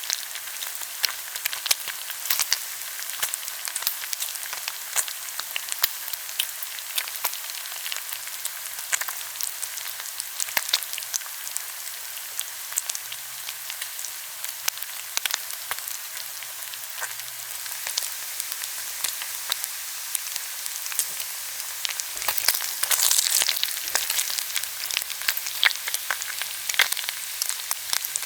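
Pork belly grilling, sizzling steadily with frequent sharp crackling pops of spitting fat. The sizzling grows louder for a couple of seconds about three-quarters of the way in.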